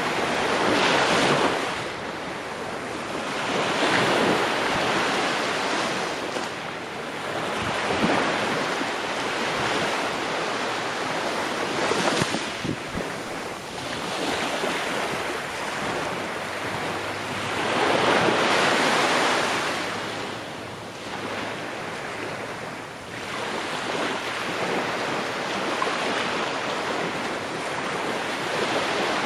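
Ocean waves breaking on a shore, a steady wash of surf that swells and fades as each wave comes in, every few seconds.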